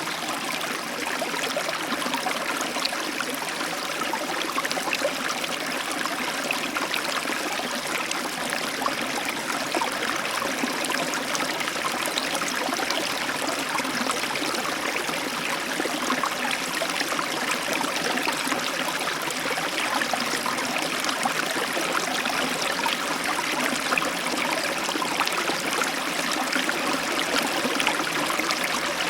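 Heavy, steady rain, a dense even hiss with many small drop ticks, heard from inside a room through an open balcony door.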